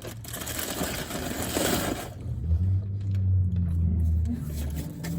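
Nearby car exhaust: a loud rush of exhaust noise for about two seconds, then a steady, low exhaust drone that lasts a couple of seconds more.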